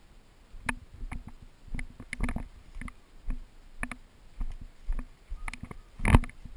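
Footsteps and rustling gear of a player on the move, knocks and crackles about every half second, with a heavier thump about six seconds in.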